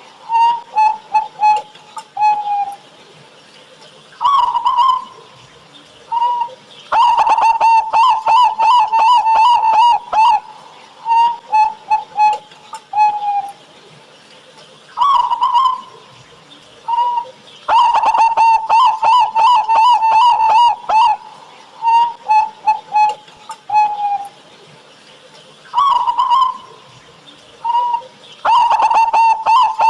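Zebra doves (local Indonesian perkutut) cooing: bursts of rapid staccato coos on a steady pitch, with short rising notes between them, the same run of phrases coming round about every ten to eleven seconds.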